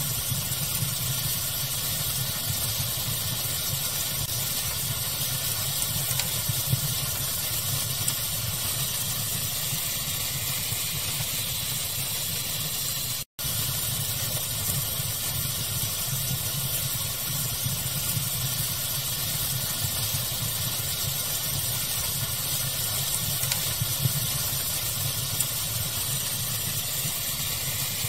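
Fire crackling ambience mixed with a steady pink-noise hiss: an even rushing bed with a few faint crackles and pops. The sound cuts out completely for an instant about halfway through, then resumes unchanged.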